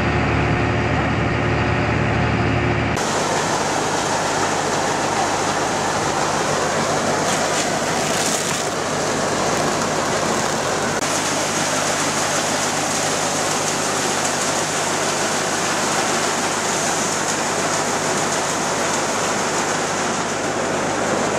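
Farm machinery running: a tractor-type engine hums steadily, then about three seconds in the sound cuts abruptly to a louder, noisier steady machine drone over a constant low hum, as of a combine working.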